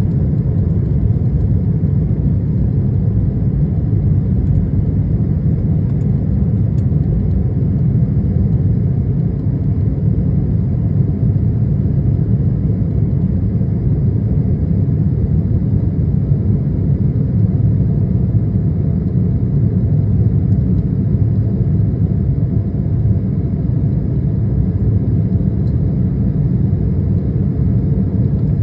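Jet airliner cabin noise: a steady low rumble of engines and airflow that holds an even level throughout.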